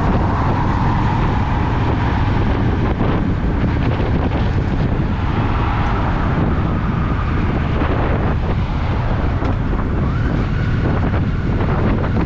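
Honda Shadow VT750's V-twin engine running steadily under way, with heavy wind rushing over the microphone.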